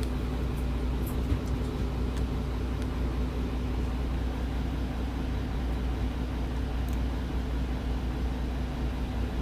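Diesel route bus (Nihon Kotsu no. 385) heard from inside, its engine running steadily with a low rumble and a constant hum, plus a few faint ticks.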